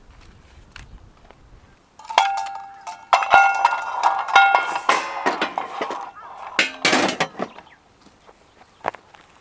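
Metal cookware and utensils clinking and clanging, the strikes leaving a ringing tone, starting about two seconds in and dying away after about seven seconds.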